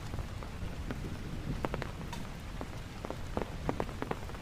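Rain falling, with single drops ticking sharply close by at irregular moments over a steady low rumble.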